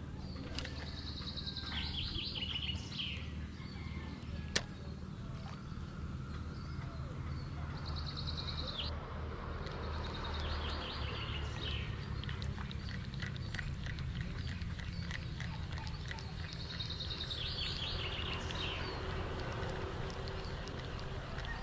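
A songbird singing a short phrase several times, a held high note breaking into a falling trill, over a steady low hum. A single sharp click a few seconds in.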